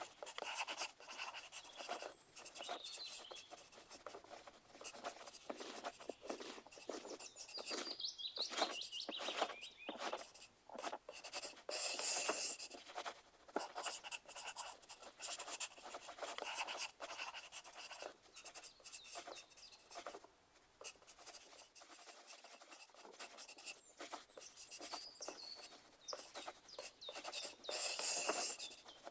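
Pencil writing on paper in irregular scratching strokes, with longer, louder stretches of scratching about twelve seconds in and near the end.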